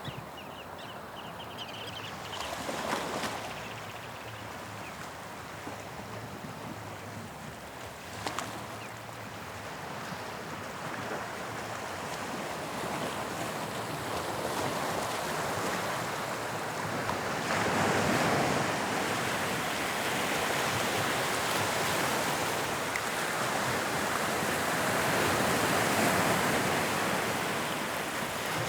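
Sea waves on the English Channel washing onto the shore: a continuous rushing surf that swells louder in the second half, with two brief louder bursts in the first ten seconds.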